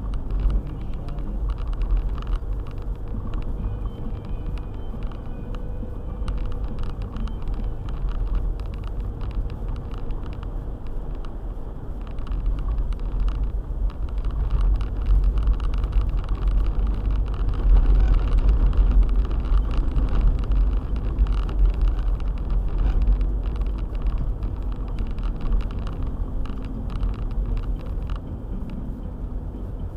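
Car driving, a steady low rumble of engine and road noise with many faint sharp ticks over it, somewhat louder in the middle.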